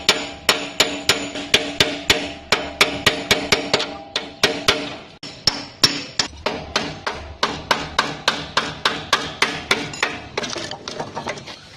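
Hammer blows on metal, struck in a steady rhythm of about three a second, each with a brief metallic ring. They grow fainter near the end.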